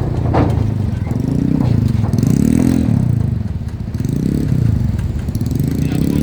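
Motor vehicle engines running close by, their pitch rising and falling several times as they rev, with a sharp knock about half a second in.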